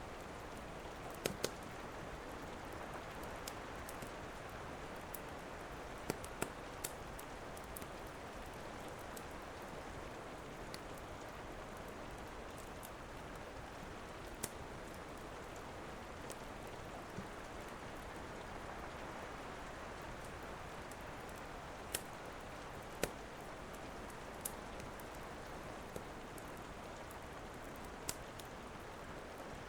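Steady rain with sharp crackles and pops of a wood fire, about a dozen scattered irregularly, some in close pairs.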